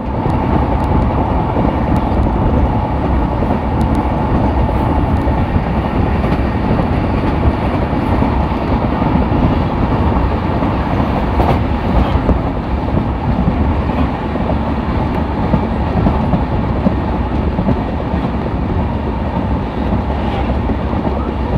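Passenger train coach running at speed, its wheels rumbling and clattering over the rails, heard from an open coach window with the air rushing past. A faint steady whine sits over the first half.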